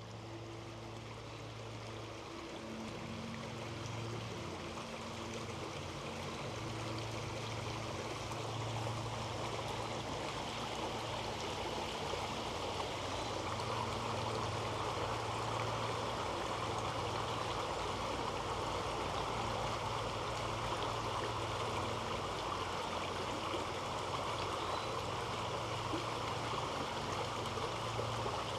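Creek water running and gurgling over rocks, growing louder over the first several seconds and then holding steady, with a faint low steady hum underneath.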